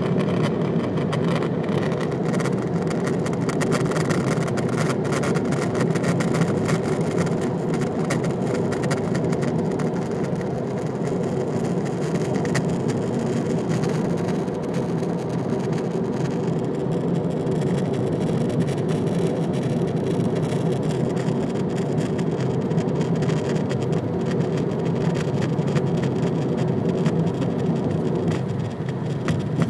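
Steady car running noise heard inside a BMW F31, with a buzz from the plastic trim piece behind the steering wheel.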